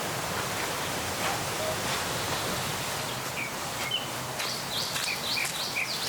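Wind through the forest trees, a steady rushing of leaves. From about halfway, a small bird gives a quick series of short, high chirps.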